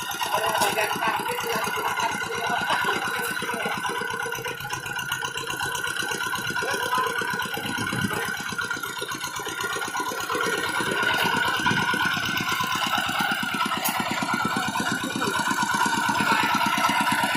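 Walk-behind hand tractor engine running steadily with a rapid, even chugging rattle.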